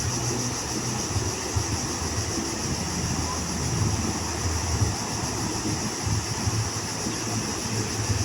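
Wind buffeting the microphone in an unsteady low rumble over the continuous wash of surf on a beach, with a steady high hiss.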